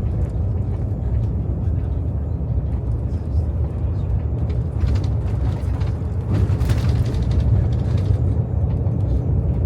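Steady low rumble of a vehicle's engine and tyres on the road, heard from inside the cabin while driving, with a brief hiss about six seconds in.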